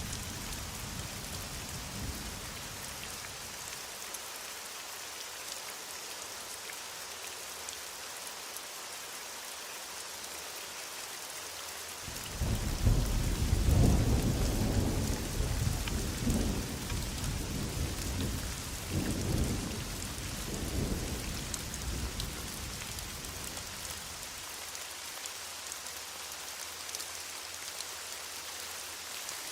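Steady heavy rain with a roll of thunder: the rumble breaks in suddenly about twelve seconds in, rolls in several surges and dies away about ten seconds later, leaving the rain alone.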